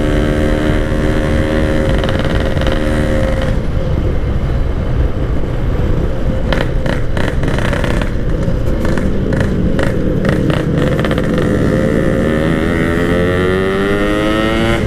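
Yamaha RX-King two-stroke motorcycle with a Packing Power exhaust, ridden at speed. The engine holds steady revs for the first few seconds, then goes rougher and noisier through the middle with wind on the microphone, and its pitch climbs steadily through the last few seconds as it revs up and accelerates.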